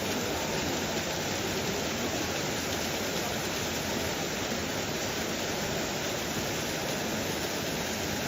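Steady rushing noise of running water, unchanging throughout.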